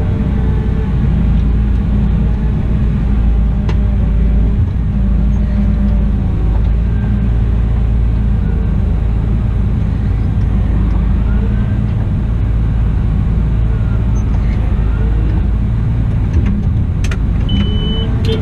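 Cat 972M XE wheel loader's diesel engine running steadily at work, with a short high beep near the end.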